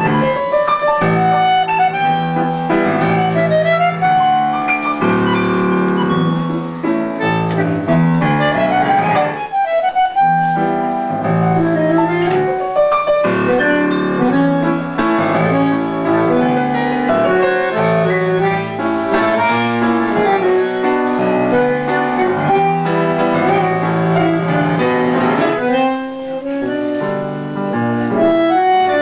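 Piano and bandoneon duo playing a tango: held bandoneon notes over piano chords.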